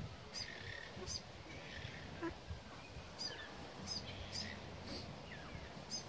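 Short, high bird chirps repeating about once a second over a soft outdoor background, with a few fainter gliding notes between them.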